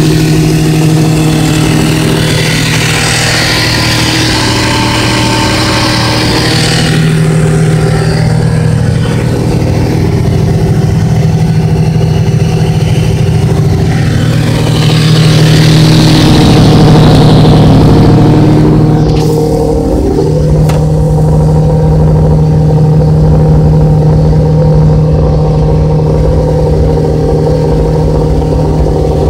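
1999 Kawasaki ZX-6R's 600cc inline-four engine running steadily at idle through an aftermarket slip-on muffler. Its speed briefly dips and recovers about two-thirds of the way through, alongside a couple of light knocks.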